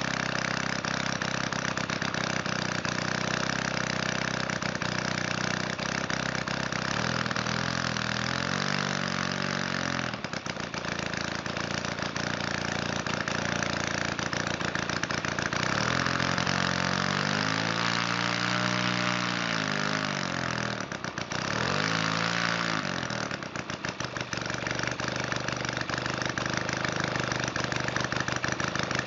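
Valach 170cc two-stroke model aircraft engine running slobbering rich, set rich on both carburettor needles and fed a 25:1 fuel-oil mix. It holds a steady low throttle and is run up and back down three times, the longest run-up in the middle.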